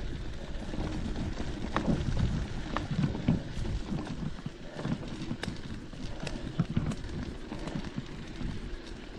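Footsteps of a hiker walking on a trail: irregular low thuds with scattered sharp clicks.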